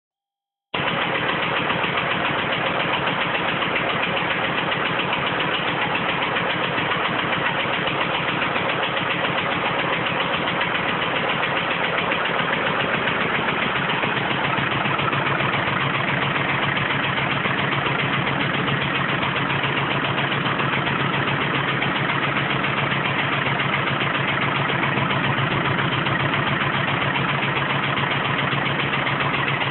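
TZ-4K-14 mini tractor's D-21 two-cylinder air-cooled diesel engine running steadily, at or near idle.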